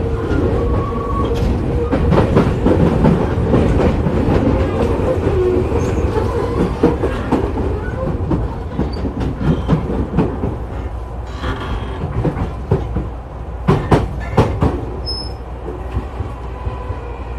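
Tokyu 5000 series electric commuter train running: a steady rumble of wheels on rail, with a level motor tone through the first half and a few sharp rail-joint clacks about fourteen seconds in.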